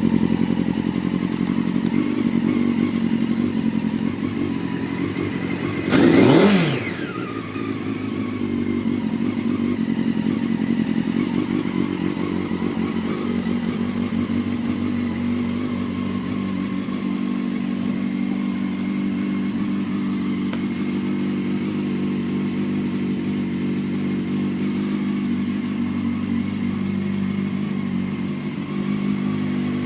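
Honda CBR600F2's inline-four engine breathing through an Arrow aftermarket exhaust, idling steadily. About six seconds in, one quick throttle blip rises sharply and drops straight back to idle.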